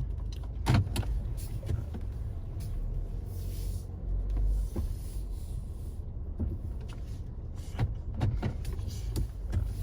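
Car running, heard from inside the cabin: a steady low rumble with a few short clicks and knocks.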